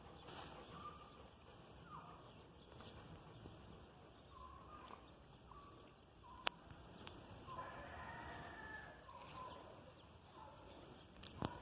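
Faint short chirping calls, about a dozen in a row at uneven intervals, with a sharp click about six seconds in and another near the end.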